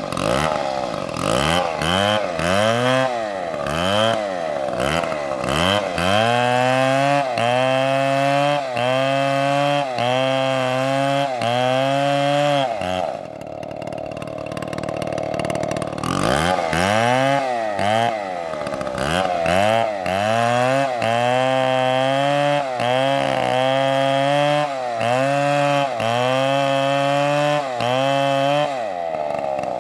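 STIHL chainsaw engine revving up and down in repeated surges about once a second, dropping to idle for a few seconds about halfway through, then surging again.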